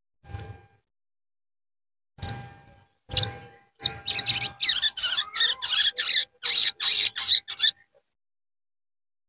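Sogon bird calls played as a lure: three separate short calls, then a fast run of sharp, high chirps, about three to four a second, which stops abruptly near the end.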